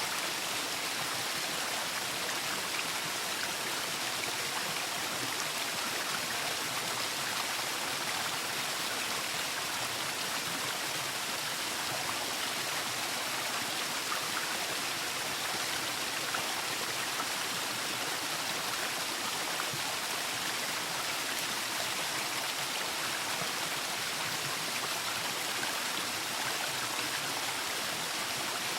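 Waterfall: water falling and splashing in a steady, unbroken rush, hissy and bright with little deep rumble.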